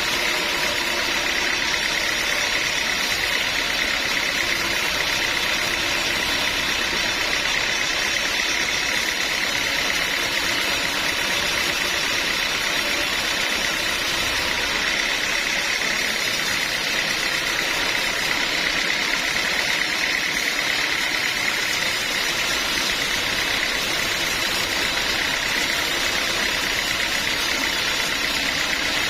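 Sawmill machinery running steadily: a constant mechanical hum with a steady high whine over it.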